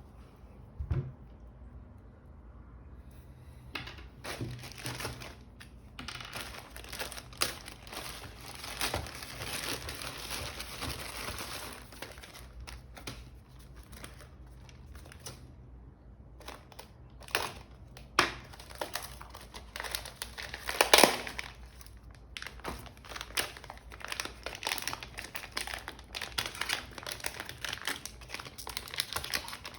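Plastic packaging crinkling and rustling as it is handled, in irregular bursts, with scattered sharp clicks. The loudest clicks come about two-thirds of the way through.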